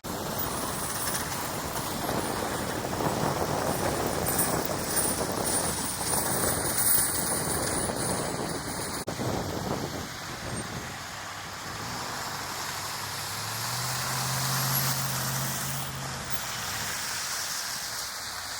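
Road vehicle traffic: a steady rush of tyre and engine noise, with a low engine hum swelling about thirteen seconds in and fading a few seconds later.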